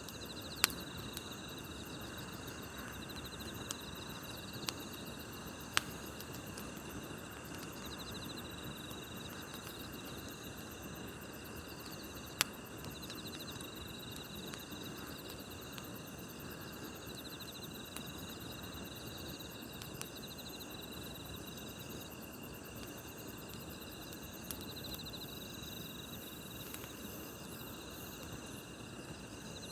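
Grass insects chirping steadily in pulsing trills over the soft hiss of a campfire. A few sharp pops from the burning wood stand out, the loudest about half a second, six and twelve seconds in.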